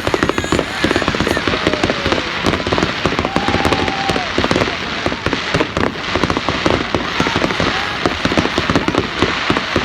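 Fireworks going off, a dense, continuous crackling with rapid pops and bangs.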